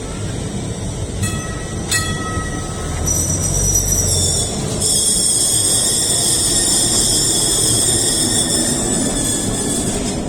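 Rail vehicle running with a steady rumble; from about three seconds in, its wheels squeal with several held high-pitched tones.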